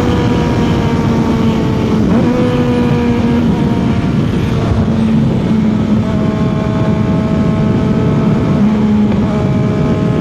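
CFMOTO 675's inline three-cylinder engine running steadily at highway cruising speed, its pitch holding fairly level with a few small shifts as the throttle changes, over a loud rush of wind and road noise.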